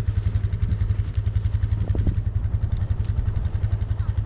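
A four-wheeler (ATV) engine idling, a steady low rumble with a quick, even pulse.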